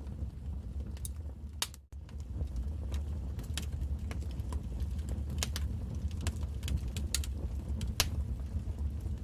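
Wood fire in a fireplace crackling: irregular sharp pops and snaps over a low steady rumble, the loudest pop near the end. The sound drops out for a split second about two seconds in.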